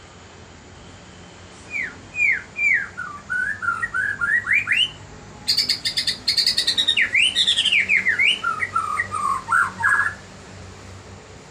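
A songbird singing a varied song of clear whistled notes, falling at first and then rising, with a fast, harsh chattering run in the middle. It starts about two seconds in and stops about two seconds before the end.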